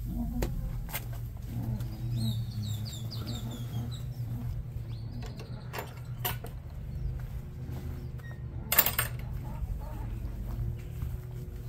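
Birds chirping a few times in short falling calls, over a steady low rumble. A few sharp knocks, and one louder brief rattle about nine seconds in.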